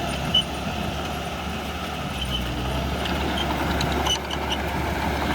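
Diesel engine of heavy earthmoving machinery running steadily, with scattered short high metallic clinks and one brief louder knock near the start.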